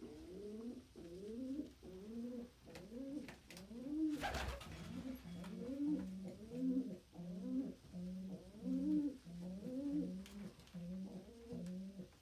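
Domestic pigeon cooing over and over, about two coos a second: rising, swelling notes at first, then lower, more level coos. A brief rustle about four seconds in.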